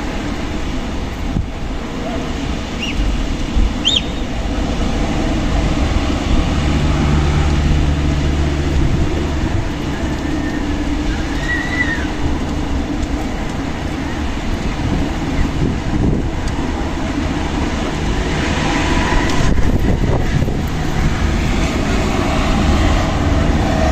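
Strong wind blowing steadily with a heavy rumble of gusts buffeting the microphone, swelling somewhat in the last few seconds.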